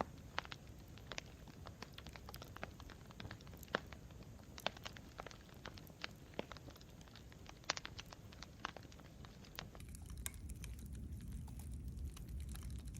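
Wood campfire crackling, with irregular sharp pops and snaps over a low steady rush of flame. About ten seconds in, the low rush grows louder.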